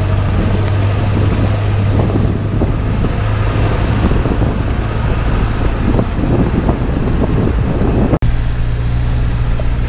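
A pickup truck carrying a camper, heard from inside the cab while driving on a gravel road: a steady engine drone with road noise and faint scattered clicks. The sound cuts out for an instant a little after eight seconds, then carries on.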